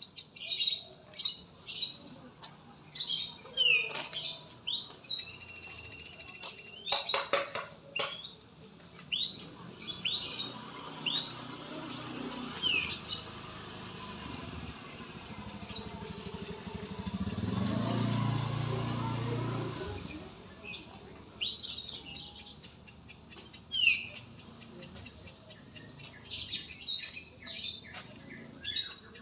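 Songbirds chirping, whistling and trilling in quick, varied phrases, with rapid repeated trills. Around the middle a passing vehicle's low rumble swells and fades under the birdsong.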